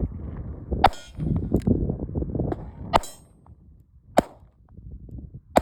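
Charter Arms Pit Bull 9mm revolver with a ported barrel firing four single shots, spaced about one to two seconds apart, the last at the very end. Low wind rumble on the microphone between the first shots.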